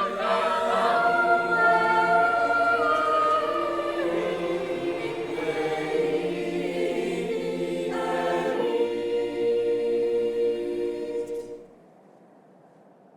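A choir singing a cappella in long held notes, with several voices together. It cuts off abruptly about eleven and a half seconds in, leaving a faint hiss.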